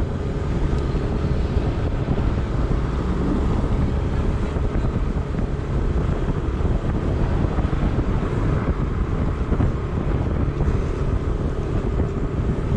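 Steady road noise of a moving vehicle, a dense low rumble with a faint steady hum, with wind buffeting the microphone.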